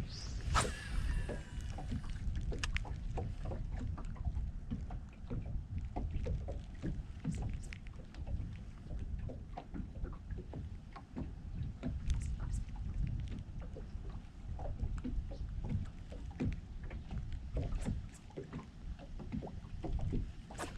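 Wind rumbling on the microphone, with a scatter of small irregular ticks from rain striking the camera.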